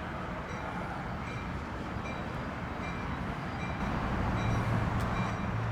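Amtrak Pacific Surfliner passenger train pulling into the station: a steady locomotive hum and rail rumble that grows louder toward the end, with a faint high ring repeating about once a second.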